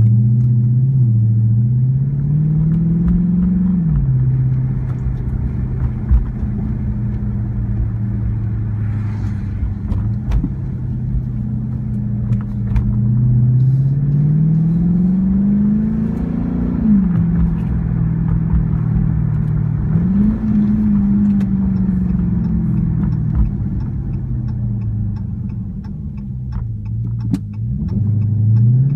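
Dodge Charger R/T's 5.7-litre Hemi V8 through a cat-back of Dynomax X-pipe and Super Turbo mufflers with the resonators removed, pulling under acceleration: the exhaust note climbs in pitch and drops back at each upshift, a few times over, with a steady cruise in between.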